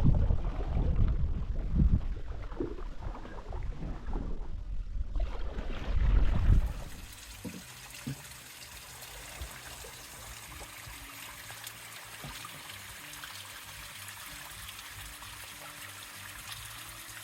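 Wind buffeting the microphone in low, gusty rumbles; about seven seconds in it gives way to the steady hiss of running water.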